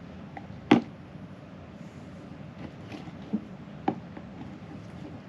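A few sharp taps from handling the slime-making things: one loud tap about three-quarters of a second in, then two lighter ones between three and four seconds in, over a low steady hum.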